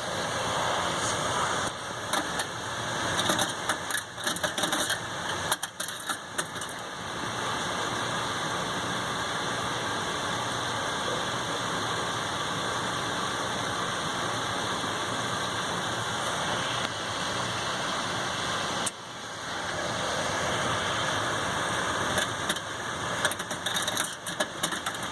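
Hayward H100ID pool heater running with a grinding noise whose cause is unknown. The grinding is rough and uneven a couple of seconds in and again near the end, steadier in between, and drops out briefly twice.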